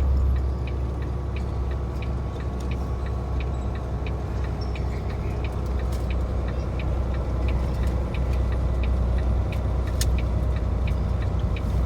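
Semi truck's diesel engine running steadily with a low drone, with a light, regular ticking about three times a second over it.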